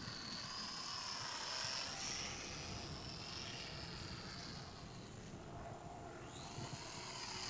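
Small electric motor and propeller of a 450 mm Top RC Hobby SF260 model plane in flight: a thin high whine that fades away about five seconds in and comes back strongly near the end.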